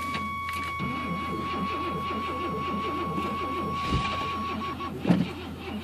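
Chevy S10 pickup's engine idling with a fast, even mechanical chatter. A steady high warning tone from the cab sounds over it and stops about five seconds in. A couple of short knocks come near the end.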